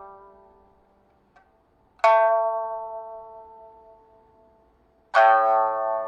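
Solo pipa (Chinese lute) playing two strong plucked chords about three seconds apart, each ringing out and slowly dying away. A faint click comes in the near-silent gap before the first chord.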